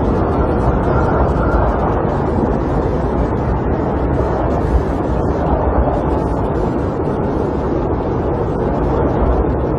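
Steady rushing and rumbling of snowstorm wind against a camper.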